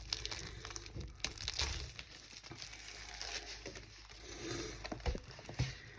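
Faint crinkling and rustling of a diamond painting kit's packaging being handled and opened, with scattered light clicks.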